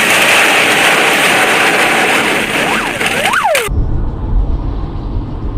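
Road noise from a moving car: a steady hiss with a few brief whistling glides, cut off abruptly about three and a half seconds in and replaced by a low rumble of the kind heard inside a car's cabin.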